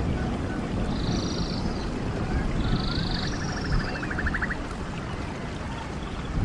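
Running water of a stream with birds singing over it: a buzzy call ending in a rising note, given twice, and a rapid trill about three seconds in.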